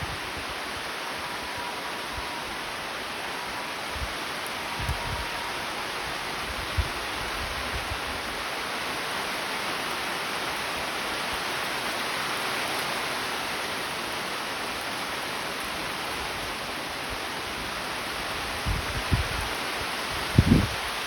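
Steady rain falling: an even hiss that swells slightly in the middle, with a few short low thumps, most of them near the end.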